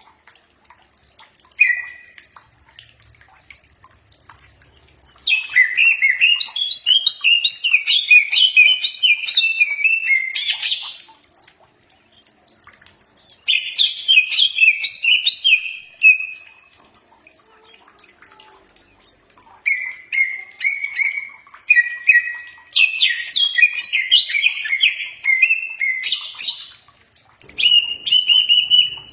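Green leafbird (cucak ijo) singing: several bursts of rapid, varied chirping phrases a few seconds long, separated by pauses and short repeated whistled notes.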